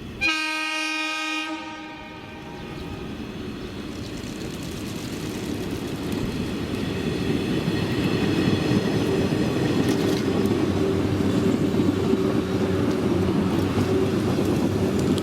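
103 series electric train sounding one horn blast of about a second at the start, then its running noise growing steadily louder as it approaches.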